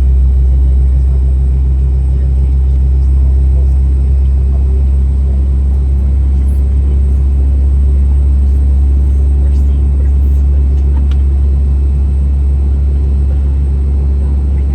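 Steady deep rumble inside the cabin of a Boeing 717 from its tail-mounted Rolls-Royce BR715 engines running at low power on the ground, with a faint steady high whine over it.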